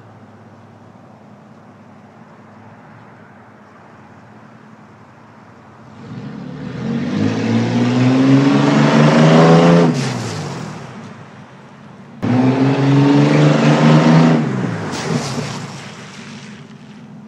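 Muffler-deleted Ford Explorer 4.0 L V6 idling with a raspy exhaust, then revved up twice: a long climb about halfway through that falls back, and a sharper blip a few seconds later that settles back to idle.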